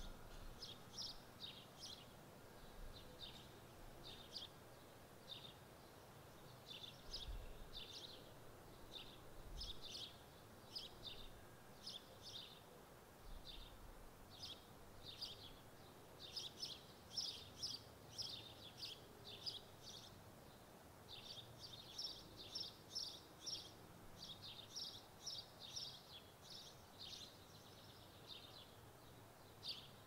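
Small birds chirping: a run of short, high chirps coming in quick clusters, busier in the second half, faint over quiet background hiss.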